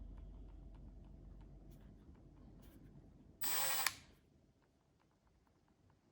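Milwaukee M12 FID2 FUEL 1/4-inch hex impact driver given one short trigger pull of about half a second, its motor whine rising as it spins up, then stopping.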